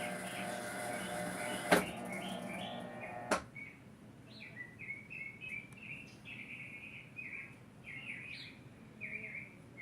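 Small birds chirping over and over in short, quick calls. A steady mechanical hum, likely from the washer, runs underneath, with a sharp click a little under two seconds in and another click a little over three seconds in as the hum stops.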